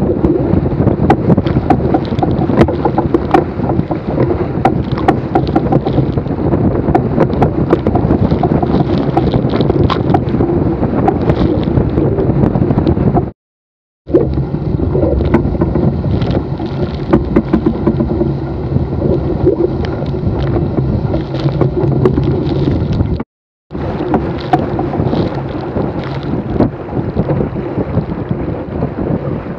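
Strong wind buffeting the microphone of a low-mounted camera on a small sailboat sailing fast, with water splashing and spray hitting the boat as it crosses swells. The sound cuts out completely twice, briefly.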